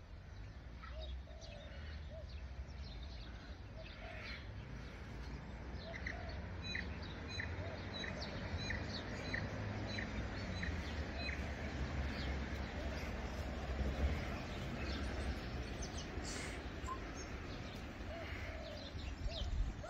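Birds chirping, many short high notes, over a steady low rumble picked up by a phone microphone outdoors.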